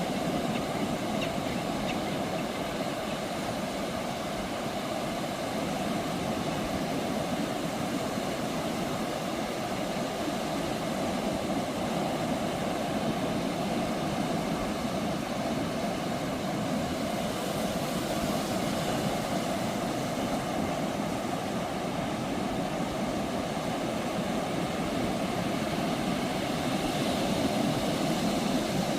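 Ocean surf breaking on a sandy beach, a steady wash of waves with gentle swells about two-thirds of the way through and again near the end.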